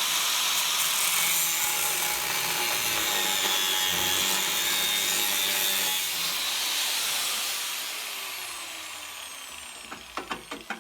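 Angle grinder with a cutting disc cutting through the thin steel of a Land Rover chassis rail. About six seconds in it is let off and spins down, its whine falling away over several seconds, and a few clicks come near the end.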